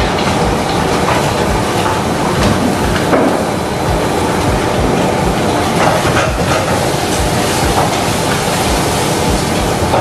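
Ground spice paste of shallots, garlic, chilli and candlenut sizzling loudly in hot oil in a wok, stirred with a wooden spatula as it fries.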